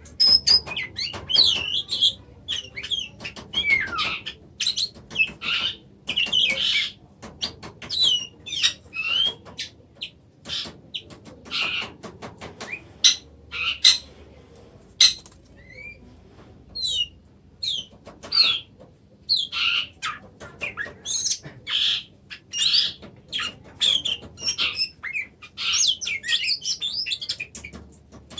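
Oriental magpie-robin (kacer) singing: a long run of quick, varied chirps and gliding whistles, broken by brief pauses.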